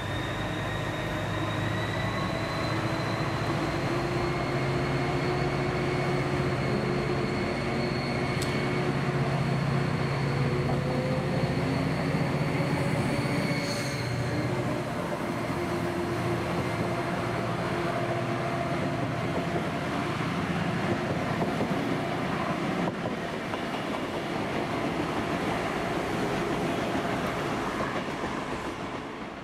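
A DSB diesel-hauled train running past close by. Its engine tones hold steady and slowly rise in pitch over a continuous rail rumble, and a high whine rises and then stops about halfway through as the train goes by.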